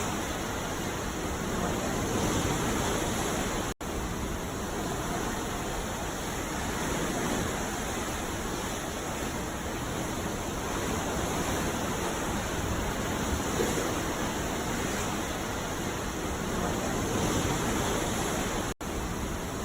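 Ocean surf on a beach, a steady rush of waves that swells and eases every few seconds. The sound drops out to silence for an instant twice, about four seconds in and near the end.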